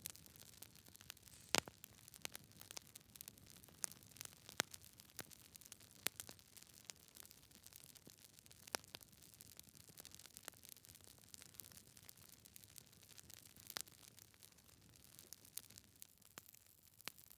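Wood fire in a fireplace, logs crackling: a soft steady hiss broken by frequent sharp pops and snaps, the loudest about a second and a half in.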